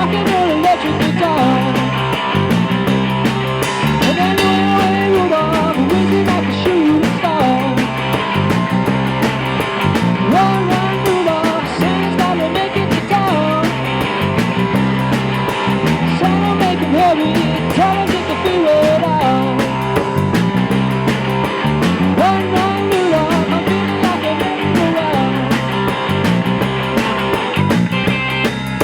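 Rock band playing an instrumental passage: lead electric guitar with bending notes over a steady bass and drum beat.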